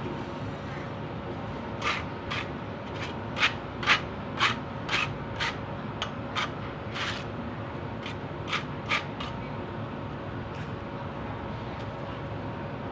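A run of about fifteen short, sharp scraping or striking strokes from hand-tool work, unevenly spaced about half a second apart, over a steady background hum.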